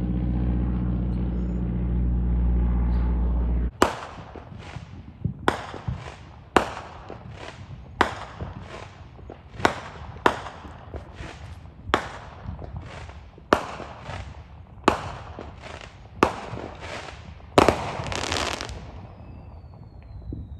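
A steady, pitched propeller-aircraft drone cuts off abruptly a few seconds in. Then come aerial fireworks: about a dozen sharp, loud bangs, roughly one to one and a half seconds apart, each echoing away, with a longer crackling burst near the end.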